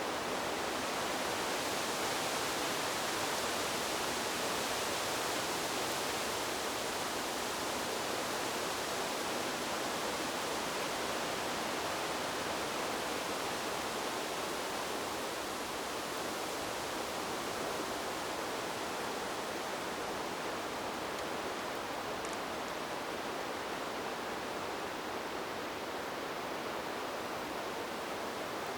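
Wind blowing through a bamboo grove: a steady, even rustling hiss of leaves and stems, a little stronger in the first several seconds and easing slightly after.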